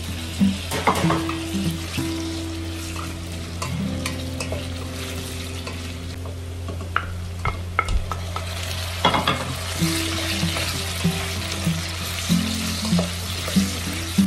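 Diced potato and carrot frying and sizzling in a stainless steel pot while a wooden spoon stirs them, with scattered knocks of the spoon and pieces against the pot. About nine seconds in a plateful of potato is tipped in with a cluster of knocks, and the sizzle grows louder after it.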